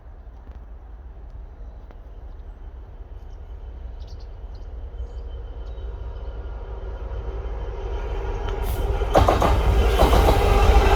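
Diesel-electric locomotive running light, approaching and growing steadily louder, its engine note rising out of the background and wheels clicking over the rails near the end.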